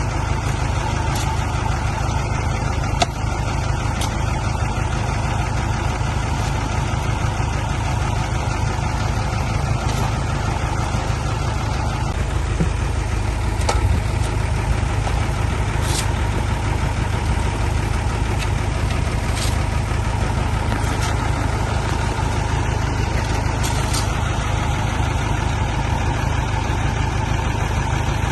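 Heavy diesel engine running steadily at low speed, with a few faint ticks over it.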